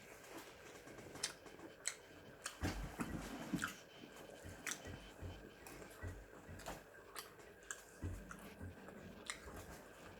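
A person chewing and biting food close to the microphone, with soft irregular crunches and mouth clicks.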